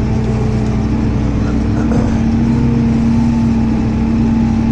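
Tractor engine running at a steady speed, with a constant hum that does not change pitch.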